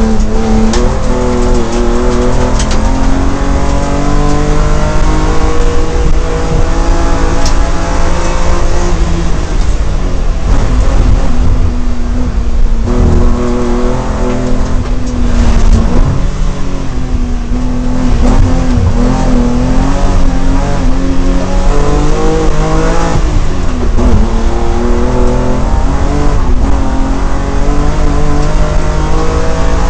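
BMW M3 race car's engine under hard acceleration, heard from on board. Its pitch climbs through each gear and drops again and again at the shifts and at the lifts for bends.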